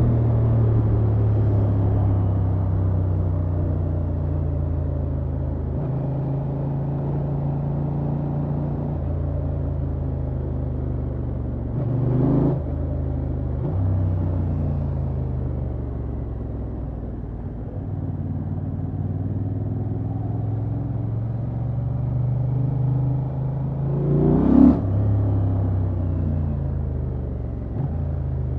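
Honda XL750 Transalp's 755 cc parallel-twin engine running on the road under way, the revs falling in steps through gear changes and climbing again. There are two short, sharp rev rises, the louder one near the end.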